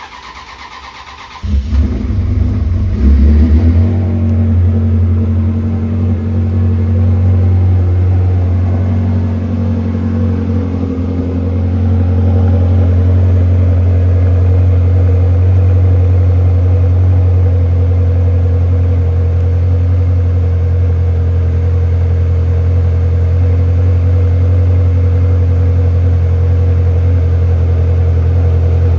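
Ferrari 360's 3.6-litre V8 started from cold. The starter cranks for about a second and a half, the engine catches and flares unevenly for a couple of seconds, then settles into a steady cold idle.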